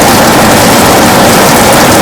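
Heavy rain on a window, a steady, loud, dense hiss of drops with no let-up.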